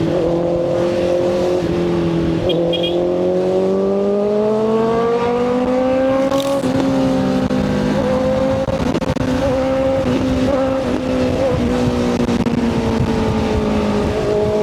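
Motorcycle engine pulling along the road, its pitch climbing steadily for about four seconds and then holding and easing slightly, over rough wind and road noise.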